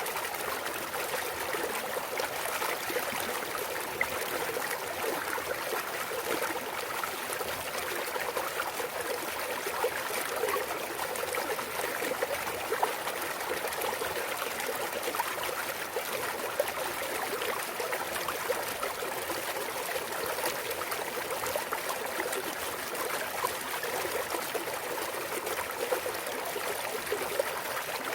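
Mountain valley stream flowing and trickling over rocks, a steady babble of running water with small splashes.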